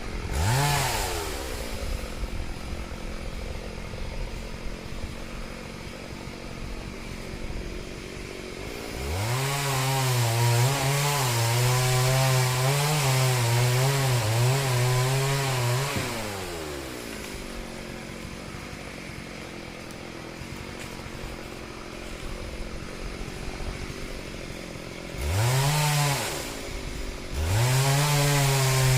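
Two-stroke chainsaw idling, blipped up briefly just after the start, then held at full revs for about seven seconds from around nine seconds in, its pitch wavering, before dropping back to idle. Near the end it revs briefly and then opens up to full speed again.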